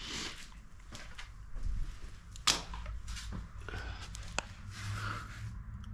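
Handling noises: light rustling with scattered clicks and knocks, and one sharp click about two and a half seconds in.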